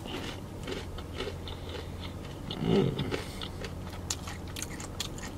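Close-up crunching and chewing of crispy fried chicken: many small crisp cracks as the breading is bitten and chewed. There is a short hum of the voice about three seconds in.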